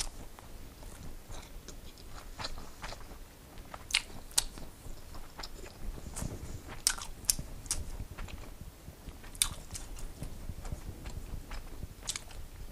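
Close-miked chewing of a mouthful of food, with sharp wet mouth clicks and smacks scattered through.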